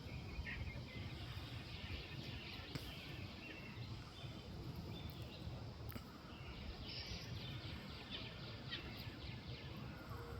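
Faint outdoor ambience: birds chirping here and there, with a quick run of chirps about seven seconds in, over a low steady rumble.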